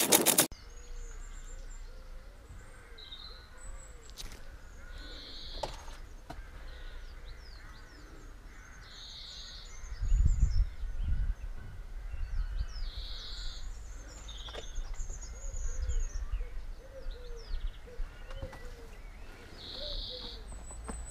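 Wild birds chirping and calling, with a loud noise that cuts off about half a second in and low rumbles around the middle and later on.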